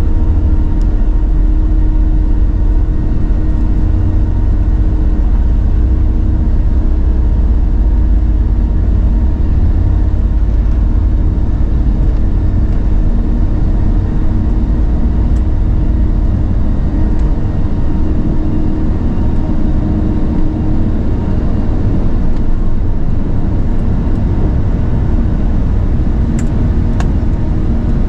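Cabin noise inside an Airbus A380 in economy: the steady run of its four Rolls-Royce Trent 900 engines over a deep rumble. The lowest rumble eases about two-thirds of the way through.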